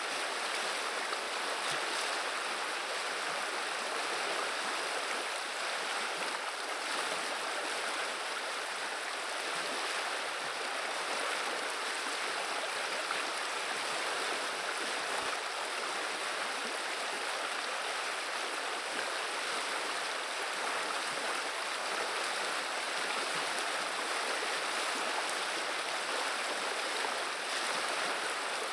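Steady rushing and babbling of a flowing river, a continuous even sound of running water.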